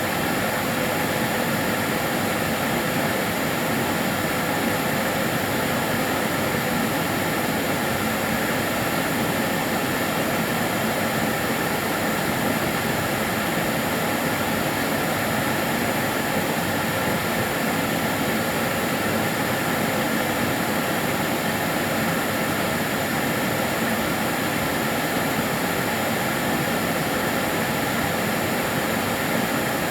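Karcher DS 6 Premium water-filter vacuum cleaner running steadily: an even rushing of air from the motor and fan with a faint high whine, unchanging throughout.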